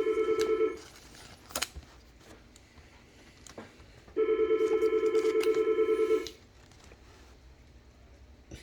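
A telephone ringing with a warbling electronic ring: one ring ends just under a second in, and another lasts about two seconds in the middle. A few faint clicks fall between the rings.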